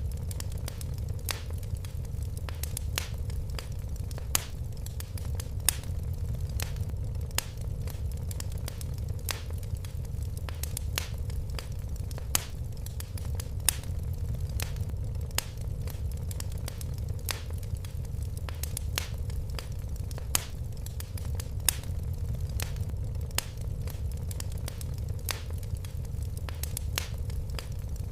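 Log fire crackling: frequent irregular sharp pops and snaps over a steady low rumble of burning flames.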